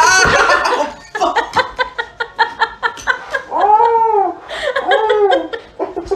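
A person's nonverbal answer: laughing, with a loud squeal at the start and two drawn-out moans that rise and fall in pitch near the middle.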